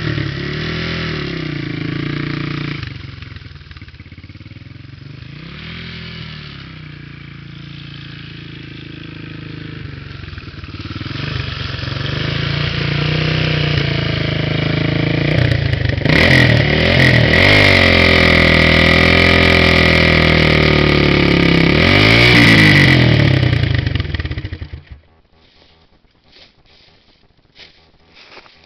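Dirt bike engine revving for a burnout: revs rise and fall, settle lower for a while, then are held high and loud for several seconds before the engine cuts off suddenly near the end.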